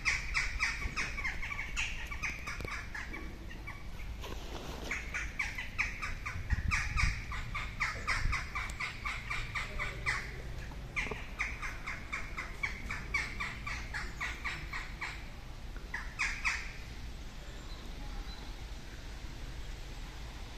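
Birds chattering in the trees: rapid runs of harsh, repeated calls, several bursts of one to three seconds each.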